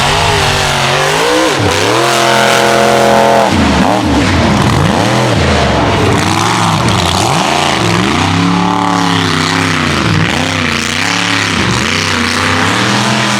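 Mega truck engine revving hard and repeatedly on a mud race course, the pitch climbing and dropping every second or two, loud throughout.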